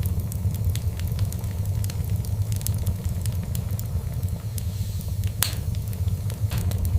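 Wood fire crackling and popping over a steady low rumble, with one louder pop about five and a half seconds in.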